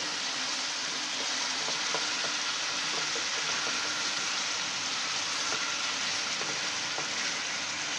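Chicken pieces frying in hot ghee in a kadhai: a steady sizzle, with a few faint clicks.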